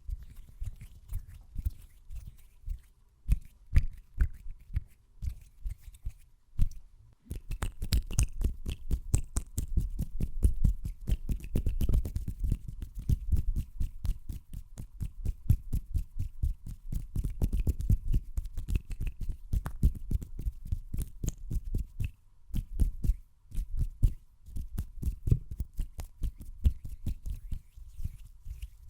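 Fast ASMR hand sounds close to the microphone: a rapid run of short strokes, several a second. The run is sparser at first and breaks off briefly twice.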